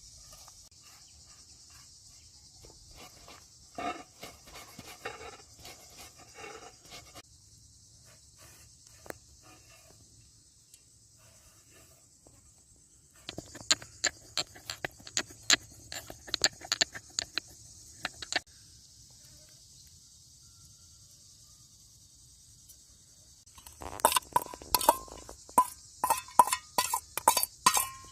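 Insects, crickets by their sound, chirring steadily in a high-pitched band. Two runs of rapid sharp clicks and taps cut in, one in the middle lasting about five seconds and a louder one in the last few seconds.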